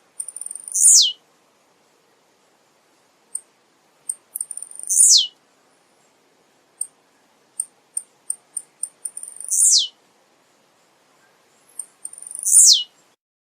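Male blue-black grassquit (tiziu) singing: four short high phrases, each sliding down in pitch, repeated every three to four seconds, with brief sharp high ticks in between.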